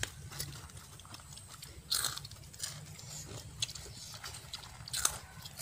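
Faint chewing and crunching of crackers being eaten, with a few sharper crunches about two and five seconds in.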